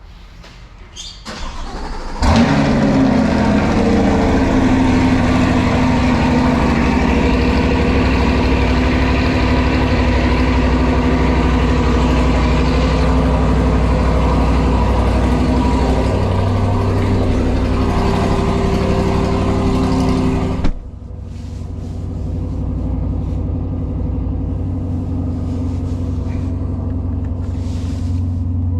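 2020 C8 Corvette's 6.2-litre V8 cold-starting: the starter cranks briefly, the engine catches about two seconds in with a flare, then runs at a loud, steady fast idle. About two-thirds through the sound drops suddenly to a noticeably quieter steady idle.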